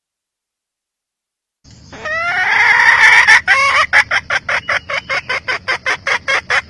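Red junglefowl hen calling: a loud, rising call begins about two seconds in, then breaks into a fast run of sharp clucks, about five a second.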